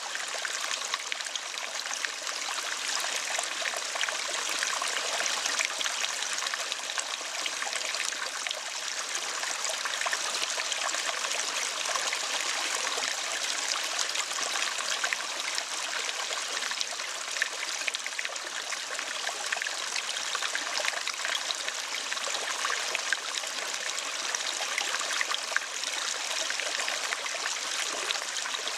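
Steady running water, a small stream trickling and splashing without a break.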